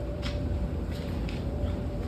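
Rag rubbing inside a washing machine drum, a few short scratchy strokes, over a steady low rumble and a thin constant hum.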